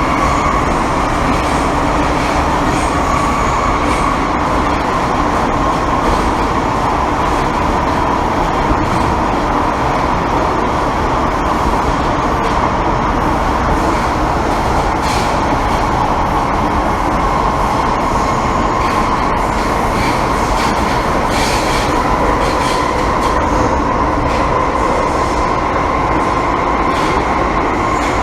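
Inside an MTR M-Train metro car running between stations: a steady, even rumble of wheels on rail. A faint whine holds nearly one pitch and drifts a little, with occasional brief high crackles.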